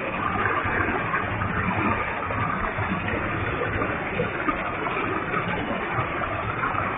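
Waterfall with a large volume of water falling and splashing, a steady, even rush.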